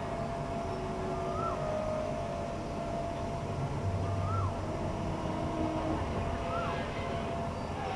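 Passenger train running: a steady rumble of wheels and carriage noise, with a faint constant tone and a short rising-then-falling chirp about every two and a half seconds.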